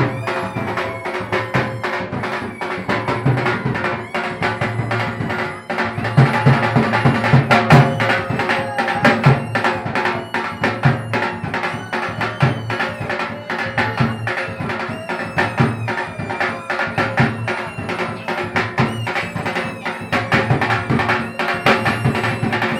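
Traditional folk music for a puppet show: fast, dense hand-drum and wood-block-like beats under sustained melodic tones, a little louder about a quarter of the way in.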